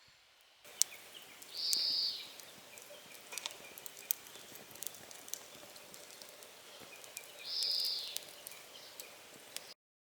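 Outdoor ambience with scattered small ticks and clicks, and a bird giving two short, high calls about six seconds apart; the sound cuts off abruptly near the end.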